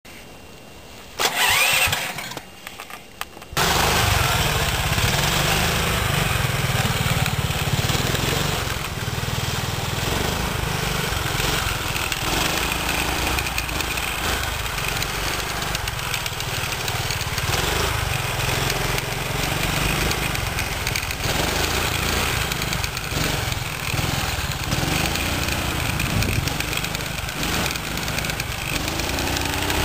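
A 13 hp 389 cc Honda-copy single-cylinder four-stroke engine being cranked for about two seconds, catching about three and a half seconds in, then running steadily.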